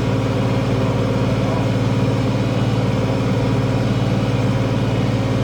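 International Harvester 1566 tractor's turbocharged six-cylinder diesel running steadily at an even pitch, as when pulling a field cultivator.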